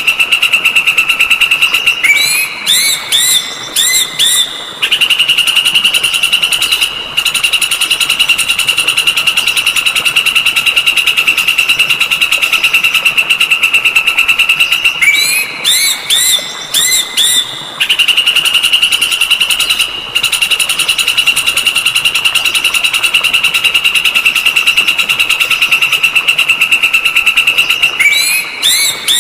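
Looped songbird training recording: a long, high, rapidly pulsing buzzy trill held for about ten seconds at a time, broken twice, about two seconds in and again about fifteen seconds in, by a quick run of short rising whistled notes, with the same pattern starting again near the end.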